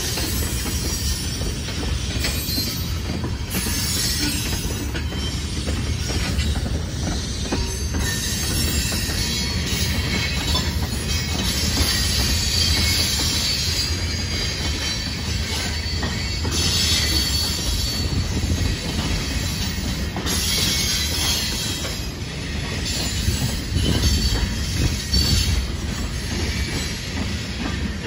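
A freight train's cars, tank cars and then open-top hoppers, rolling steadily past on the rails: a continuous low rumble of steel wheels with a high-pitched wheel-on-rail squeal that swells and fades.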